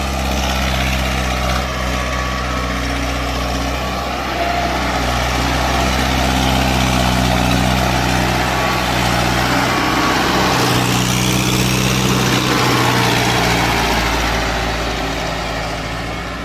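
Diesel tractor engine running steadily, its note changing briefly about ten seconds in.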